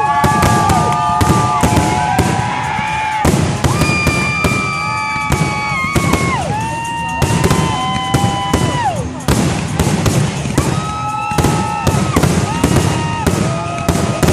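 Fireworks going off in a dense barrage, many sharp reports a second, mixed with held tones that now and then slide down in pitch.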